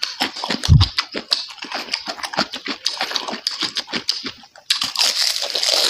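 Close-up mouth sounds of chewing crispy fried pork fat: rapid crunching and crackling with wet smacking, broken by a brief pause about four and a half seconds in.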